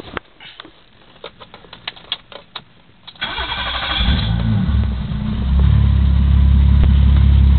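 BMW 325e's 2.7-litre M20 straight-six cold-starting after two weeks unused: a few light clicks, then about three seconds in the starter cranks briefly and the engine catches, settling into a loud, steady idle.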